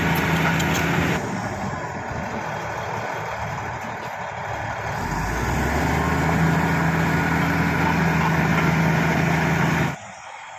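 Shantui SD16 bulldozer's diesel engine running. It eases off about a second in, builds back up around the middle, and cuts off abruptly near the end.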